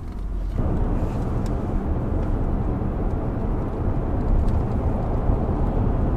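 Car on the move, heard from inside the cabin: a loud, steady rumble of road and wind noise that jumps up suddenly about half a second in.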